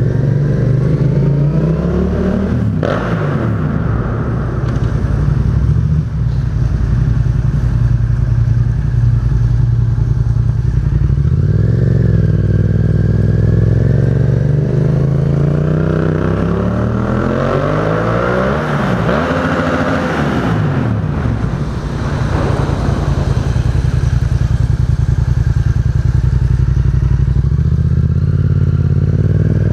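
Engine with an aftermarket exhaust idling and being revved, echoing in a parking garage: a short rev near the start, then a long climb in revs with several quick blips about halfway through, settling back to idle.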